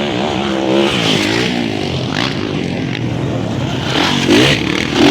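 Motocross dirt bike engines revving, several at once, their pitch rising and falling as riders open and close the throttle.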